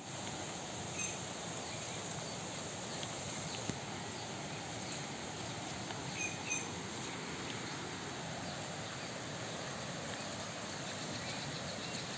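Steady hiss of falling rain, with a few short high chirps about a second in and again around six seconds.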